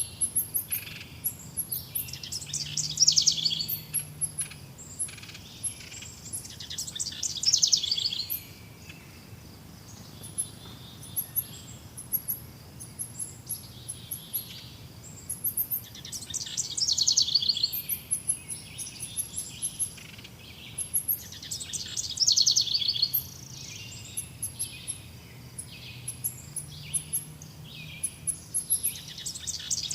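Several wild birds singing. One bird repeats a loud song phrase about every five or six seconds, and short high chirps and calls keep up in between.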